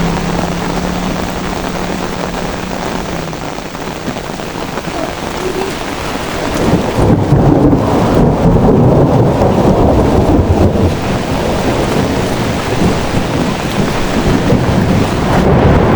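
Heavy rain falling steadily, with a low rumble of thunder that swells about six seconds in and keeps rolling.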